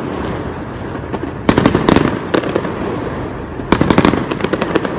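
Aerial fireworks going off: two quick volleys of sharp bangs, about one and a half seconds in and again near four seconds, over a steady background hiss.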